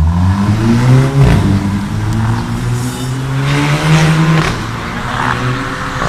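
2015 Audi TT engine and exhaust, fitted with a remote on/off exhaust valve, revving: the revs fall away during the first second, run steady, rise briefly about four seconds in, then drop back.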